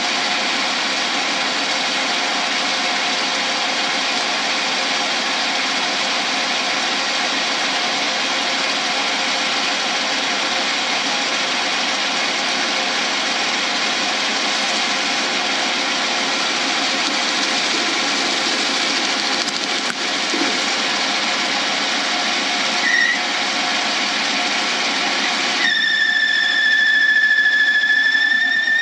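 Lathe turning a cast blank inside its PVC pipe mold, the tool cutting away the PVC with a steady loud scraping noise. About three seconds from the end the cut changes to a steady high-pitched squeal of the tool on the spinning work.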